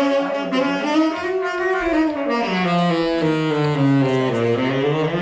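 Saxophone playing a slow improvised line of held notes that steps down to a low note about four seconds in, then climbs again near the end.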